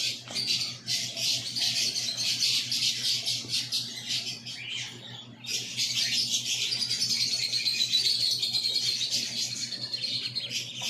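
Many caged birds chirping together in a dense, continuous chorus of rapid high twitters, which dips briefly about five seconds in. A steady low hum runs underneath.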